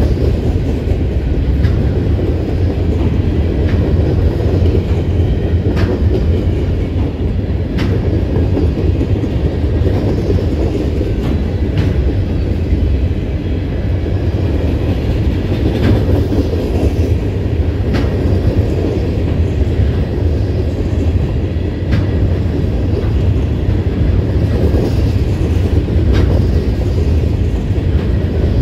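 Freight train of open-top gondola cars rolling past steadily. A heavy, continuous rumble carries sharp wheel clicks at irregular intervals.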